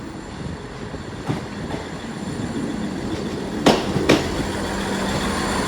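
Class 159 diesel multiple unit running into the platform, growing steadily louder, with a steady engine note and two sharp clacks of wheels over rail joints about four seconds in.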